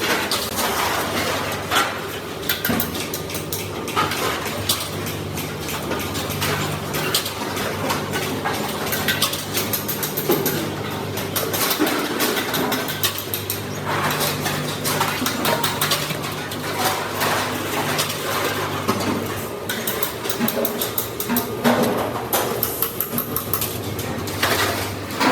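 Sheet metal and metal hand tools clinking and tapping in irregular strokes over a steady low hum.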